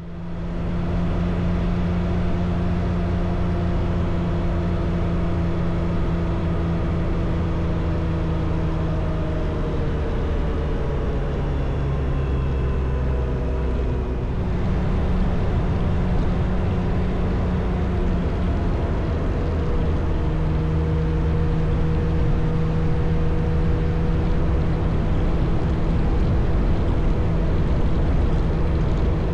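Motorcycle engine running steadily under way with wind rush, the engine note shifting about halfway through and again a few seconds later as speed or gear changes.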